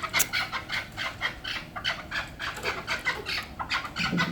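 Chukar partridge calling: a fast, even run of short clucking notes, about five a second.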